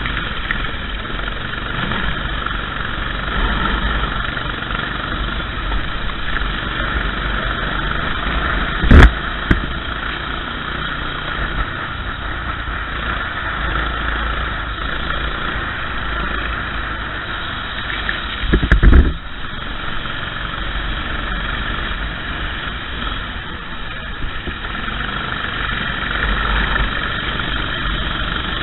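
Racing kart engine running steadily, with two loud thumps: one about nine seconds in and another, slightly longer, around nineteen seconds in.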